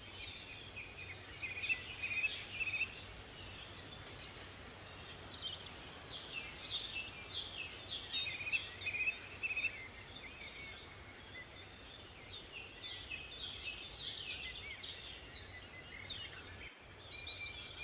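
Several songbirds chirping and singing in quick, overlapping bursts of short high notes over a steady background hiss. A steady high tone joins near the end.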